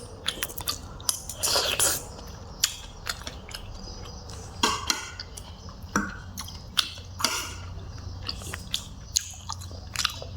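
Close-miked chewing and eating: wet mouth sounds with many short sharp clicks and a couple of longer breathy, hissing sounds.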